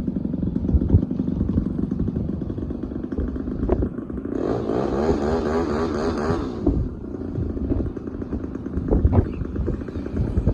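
RC model airplane motor and propeller running, with a louder pass from about four to seven seconds in where the pitch wavers up and down.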